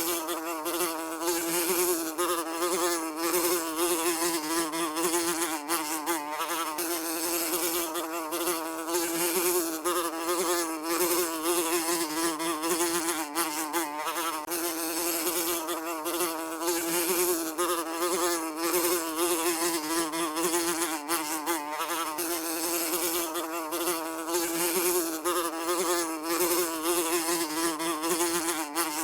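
A fly buzzing continuously, a steady drone whose pitch wavers slightly up and down.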